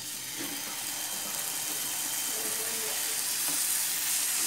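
Marinated chicken legs sizzling as they go into hot oil in a frying pan, a steady hiss that gets louder as the second leg is added.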